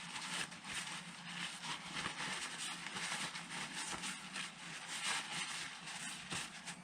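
Small irregular clicks, taps and scrapes of metal engine parts and hand tools being handled during an engine strip-down, over a steady low hum.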